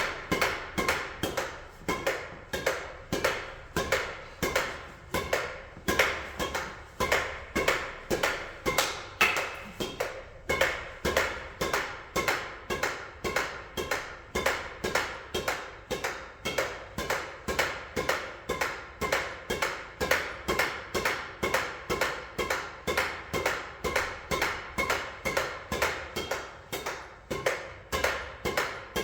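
Table tennis ball struck back and forth in a steady rally: even, sharp pings of ball on bat and table, about two a second.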